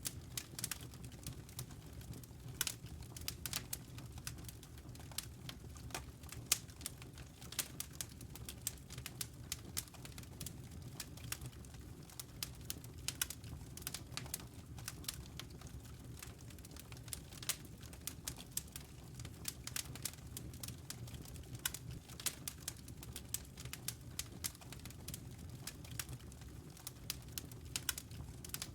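Wood fire crackling in a fireplace: a steady low rumble of burning logs with frequent, irregular sharp pops and snaps.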